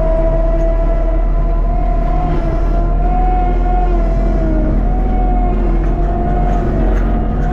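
Skid steer with a forestry mulcher running steadily under power, a strong whine that wavers slightly in pitch over the engine's rumble.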